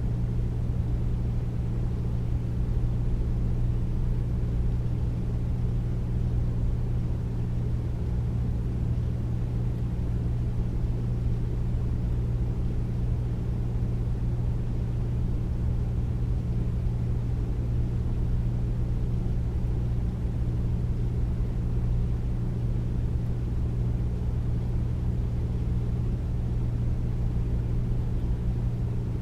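Air conditioner running steadily: a deep, even hum with airy noise above it, unchanging throughout.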